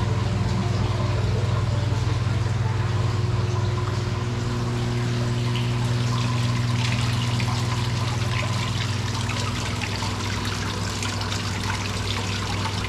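Water trickling steadily, typical of an aquarium filter's outflow splashing into a tank, over a constant low electrical hum.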